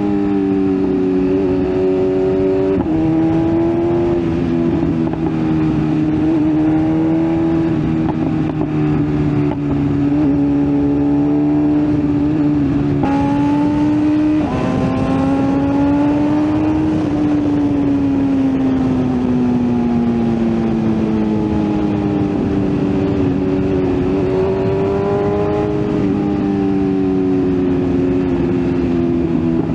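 BMW S1000RR's inline-four engine running under way, its pitch rising and falling with the throttle and changing abruptly once, about halfway through, as with a gear change.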